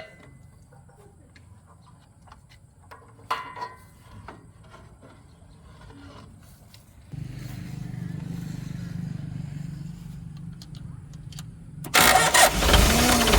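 A 30-year-old car's engine being started: the starter cranks steadily for about five seconds, then the engine catches and runs loudly near the end. A few small clicks and knocks come before the cranking.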